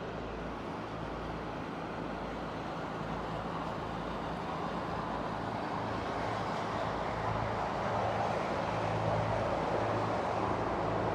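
Motorboat engines running as the boat comes through the inlet: a steady low drone that grows gradually louder as it approaches.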